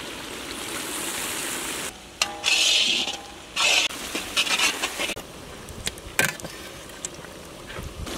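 Chopped vegetables and chicken sizzling in a large iron kadai as vinegar goes in, with a louder surge of sizzling a couple of seconds in, then a metal spatula scraping and clinking against the pan as the mix is stirred.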